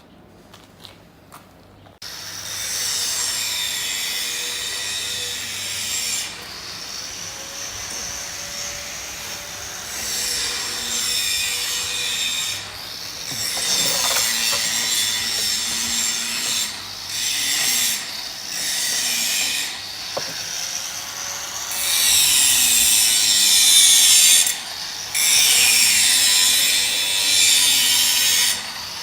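A power tool working in repeated stop-start runs of a few seconds each, with a harsh hissing, rasping edge, starting about two seconds in.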